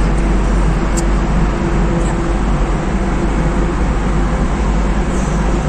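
Steady road noise of a car driving through a long road tunnel, heard from inside the car: a constant low rumble of tyres and engine with a faint hum, and a single short click about a second in.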